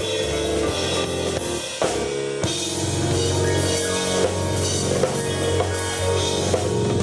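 Live rock jam by a keyboard and drum kit duo: sustained keyboard chords over a steady drum beat with bass drum and snare.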